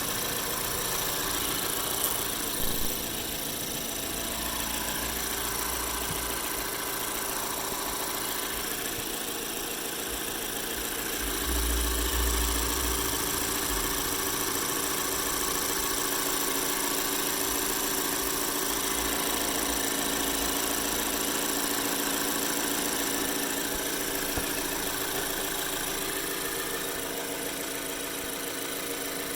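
2012 Mazda 3's 2.0 L Skyactiv four-cylinder petrol engine idling steadily on its new NGK spark plugs, run as a check after the plug change. The low rumble swells briefly about twelve seconds in.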